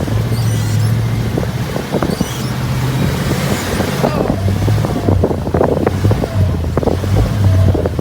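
Monster-truck school bus engine running steadily at low speed, with wind on the microphone. A cluster of short rattling knocks comes from the bus about halfway through.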